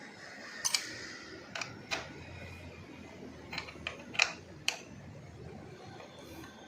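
Scattered sharp clicks and taps, about eight in all and irregularly spaced, from an Allen key working the seat-cover screws and plastic trim of a motorcycle.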